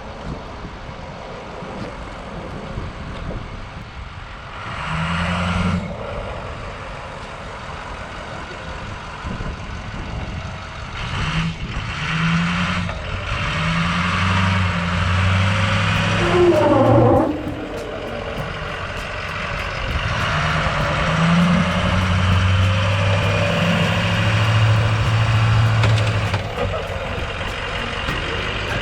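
Lifted Ford F350 diesel truck's engine running and revving up several times, the loudest rises from about halfway through and again near the end.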